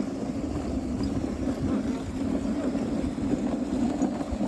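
Dog sled running over snow: a steady rumbling hum of the sled gliding, with wind buffeting the camera microphone.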